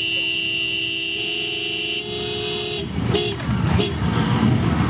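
A klaxon sounds with a steady, multi-note tone that shifts pitch slightly about a second in and cuts off about three seconds in. A louder, irregular low rumbling follows it.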